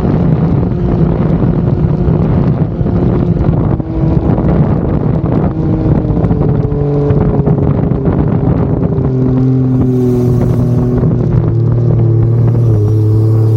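Turbocharged Ford Barra 4.0 L straight-six race-boat engine running hard at steady revs, loud, over a dense rushing noise. Its note steps down lower about nine seconds in.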